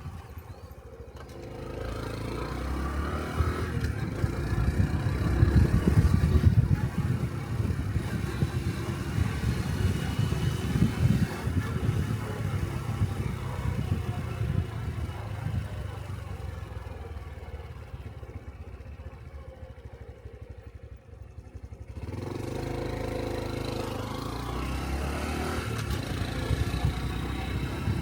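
Honda 125 cc Cub motorcycle's single-cylinder four-stroke engine on the road, rising in level a few seconds in, dropping to a quieter low stretch about two-thirds of the way through, then picking up again.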